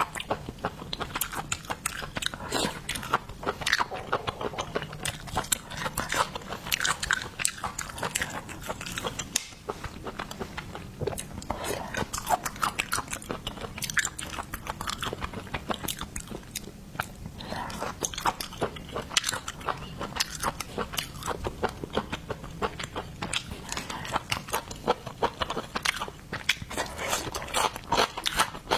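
Close-miked crunching and chewing of seafood: a dense, continuous run of crackles and clicks from the mouth.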